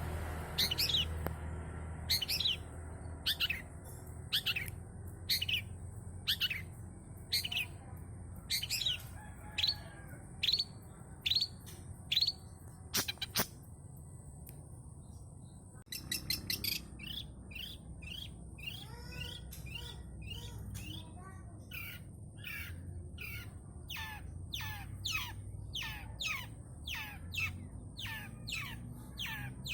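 Long-tailed shrike singing a song full of mimicked calls of other birds. It starts with sharp, high, downward-sweeping notes about a second apart, and about halfway through breaks into a faster, denser run of varied chattering notes.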